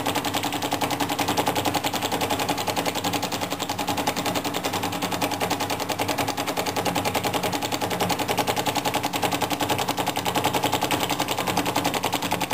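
Model flame-eater (vacuum) engine, 16 mm bore and 35 mm stroke, running fast and evenly: a rapid, steady ticking clatter from its piston and valve with each flame-gulping stroke. It is warmed up and running smoothly.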